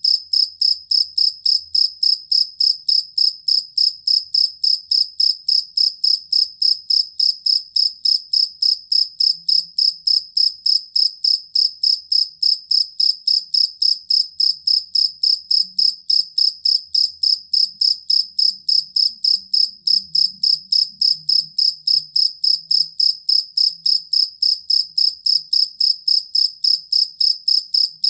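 Field cricket chirping steadily in a high, ringing tone, about three chirps a second without a break.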